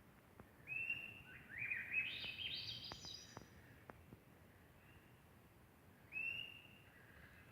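Songbird singing in the forest: a clear whistled note, then a quick run of notes that climbs higher and higher in pitch, and another short whistle near the end.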